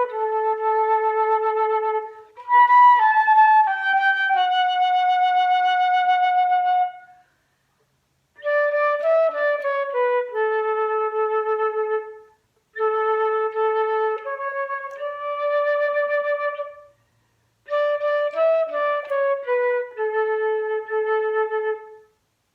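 Recorder playing a slow melody in four phrases with short pauses between. Each phrase is a falling run of notes that ends on a long held note.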